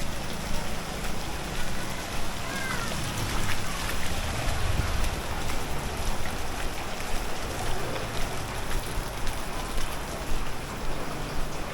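Steady rain pattering on a city street, with many small drop ticks over a low hum of vehicle engines.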